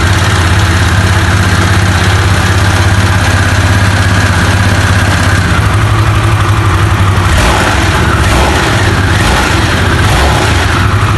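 Harley-Davidson Sportster S's liquid-cooled V-twin engine idling steadily just after a cold start, with a deep, even note and small brief changes in the second half.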